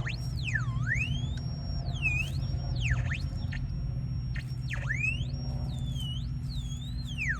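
Metal detector squealing, its electronic tone swooping up and down in pitch again and again and now and then holding a high note, over a low steady hum.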